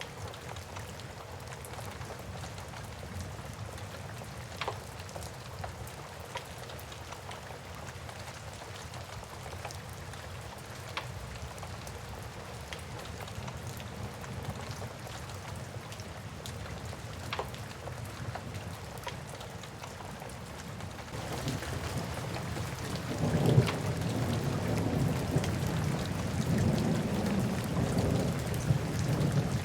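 A wood fire crackling with scattered sharp pops over the steady hiss of rain. About two-thirds of the way through, a low rumble of thunder builds and carries on to the end.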